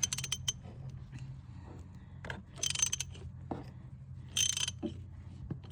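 Socket ratchet clicking in short bursts, about every second and a half, as it is swung back and forth to back out a fastener that has already broken loose during an oil change.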